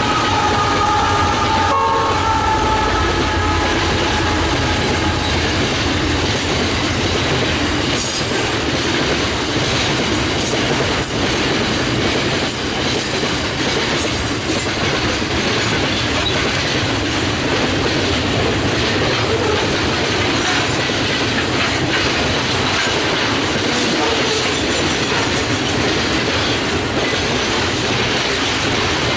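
Diesel-hauled freight train of steel-coil wagons passing close by, with steady rolling noise and wheel clatter. In the first two or three seconds several held tones sound over it as the locomotive goes past, then fade, leaving the wagons rumbling by.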